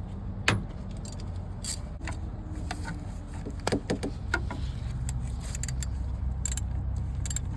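Scattered metal clicks and clinks of a wrench working the 13 mm bolt as the fan-belt tensioner is tightened back on, irregularly spaced, over a steady low hum.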